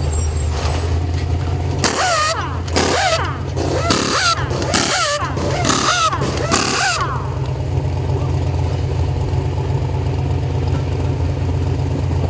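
A trophy truck's engine idling steadily while about six short bursts of a pneumatic impact wrench run in quick succession, spinning up and down as lug nuts come off and go on during a pit-stop wheel change.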